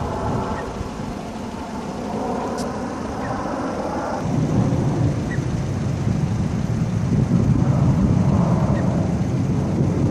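Aerobatic jet aircraft rumbling overhead, growing louder about four seconds in, with wind buffeting the microphone.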